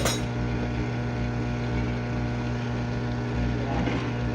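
GE dishwasher running mid-cycle: a steady motor hum with an even hiss over it, and a sharp click right at the start.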